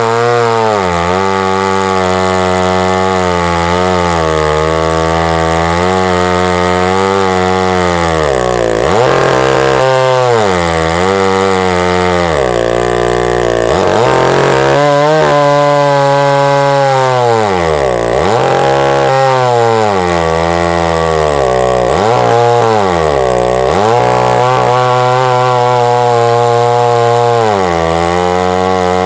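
Large Husqvarna two-stroke chainsaw running at high revs while ripping a log lengthwise in a chainsaw mill. Its pitch drops several times as the engine bogs under the cutting load, then climbs back.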